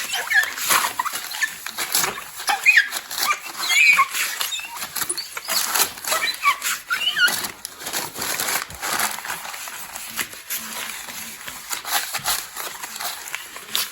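Crumpled newspaper rubbed over the glass door of a wood stove-fireplace: repeated rustling wiping strokes, with short high squeaks mostly in the first half.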